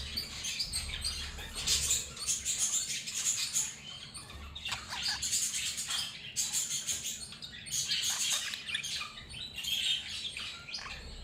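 Many budgerigars chattering and chirping together, a dense, continuous high-pitched twittering.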